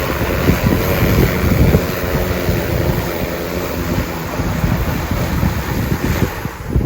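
Strong wind buffeting the microphone: a heavy, gusty low rumble with a hiss above it that drops away near the end.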